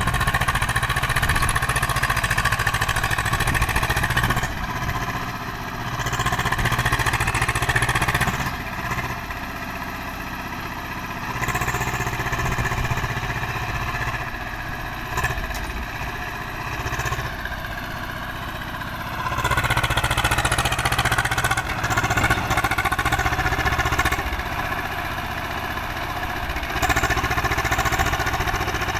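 Swaraj 724 XM tractor's diesel engine running, its level rising and falling back several times as the engine is revved and settles.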